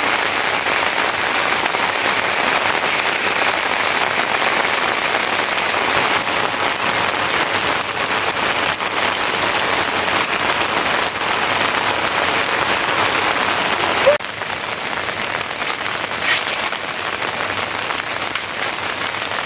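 Steady, heavy rain pattering on surfaces. About fourteen seconds in it changes abruptly to slightly quieter rain.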